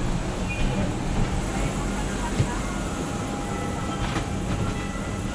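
Steady low rumble of a vehicle cabin in motion, with a few faint clicks.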